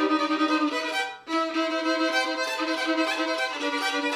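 Fiddle played with a flat fiddle bridge, bowing a rhythmic country-bluegrass shuffle in quick even strokes, often on double stops. There is a brief break about a second in before the pattern resumes.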